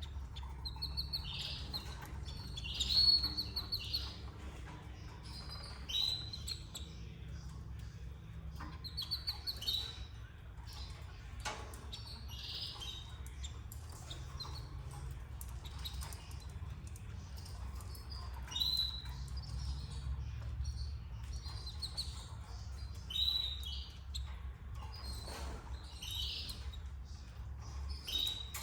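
Canaries chirping at a nest: short, bright chirps every few seconds over a steady low hum.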